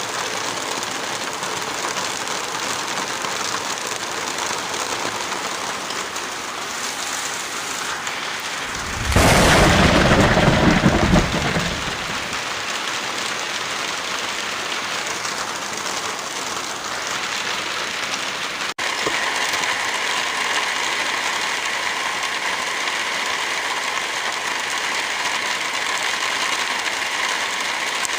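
Heavy rain falling steadily. About nine seconds in, a much louder, deeper rush lasting about three seconds sweeps over it. Near the end of the first two-thirds the sound drops out for an instant and the rain comes back with a different, steadier hiss.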